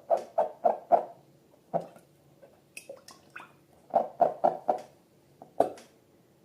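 Slime and balloons being squeezed: quick squishy squeaks about four a second, in two short runs with a pause of softer clicks between them.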